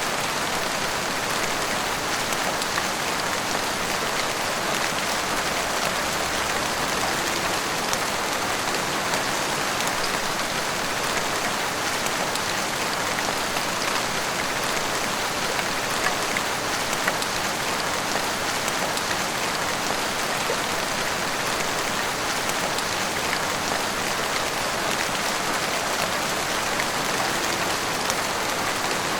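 Heavy rain pouring steadily, a dense even hiss with fine pattering of drops on hard surfaces.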